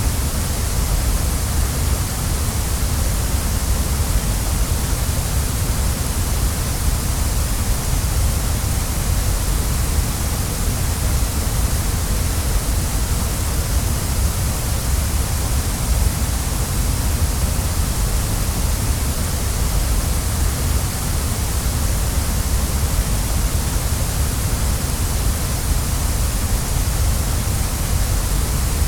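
Waterfall running: a steady, even rush of falling water, unchanging throughout.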